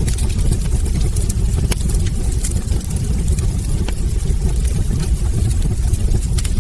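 Wood logs burning in a fireplace: a steady low rumble of flames with scattered sharp crackles and pops from the burning wood.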